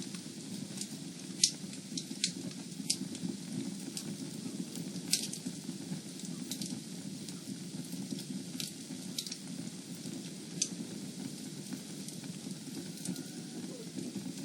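Wood fire in a fireplace burning with a steady low rush and sharp crackles and pops every second or so, the loudest about a second and a half in and about five seconds in.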